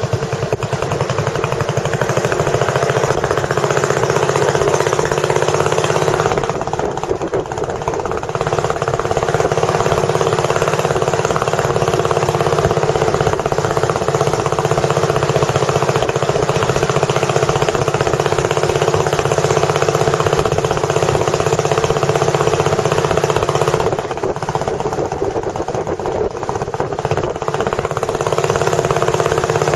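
A boat engine running steadily and loudly with a fast, even chugging; the sound thins briefly a few seconds in and again near the end.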